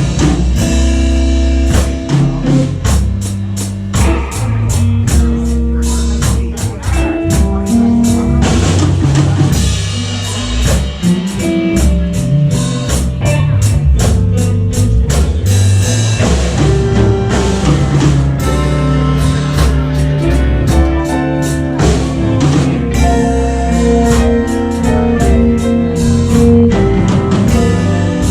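Live blues band playing an instrumental stretch of a song, with drum kit and guitar over a steady beat and no singing.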